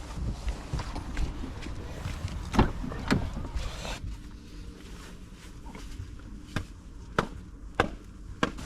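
Outdoor background rumble with a few scattered sharp knocks and clicks; the sound changes about halfway through.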